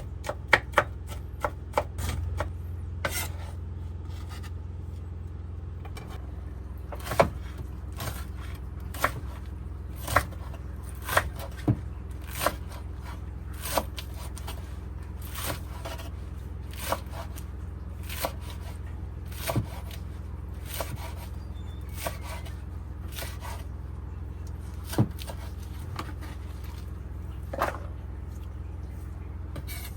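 Knife chopping on a cutting board: irregular single knocks, roughly one every half second to a second, over a steady low hum.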